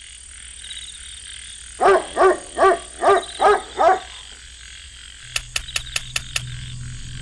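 Six short pitched animal-like calls in quick succession, about two or three a second, followed a second or so later by six sharp clicks over a faint low hum.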